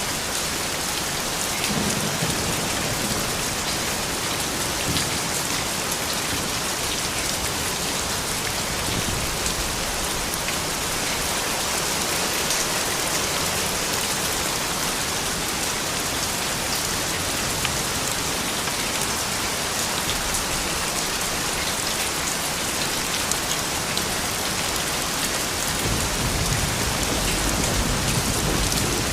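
Steady soft rain falling: a constant hiss with fine scattered drop ticks. A low rumble joins in near the end.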